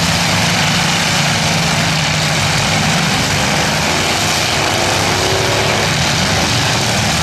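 Several demolition derby cars' engines running loud together, revving as the cars push against each other, with a rising rev about halfway through.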